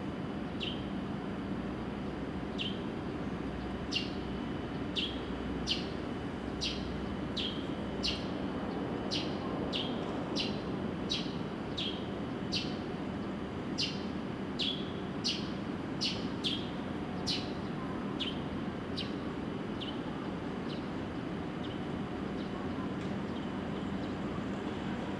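A long run of short, sharp bird-like chirps, about one to two a second, each dropping quickly in pitch, over the steady hum of a station platform. The chirps fade out a few seconds before the end.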